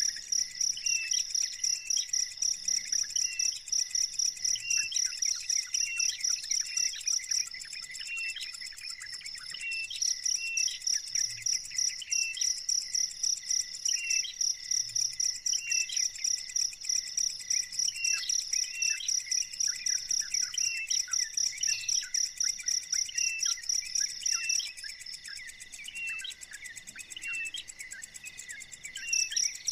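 A cricket chirping in a loud, high, rapidly pulsing trill that breaks off twice for a few seconds, about a third and near the end. Behind it, short chirps repeat about once a second.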